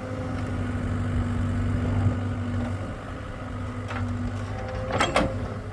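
Hitachi excavator's engine running steadily, with a couple of sharp metallic clanks about five seconds in.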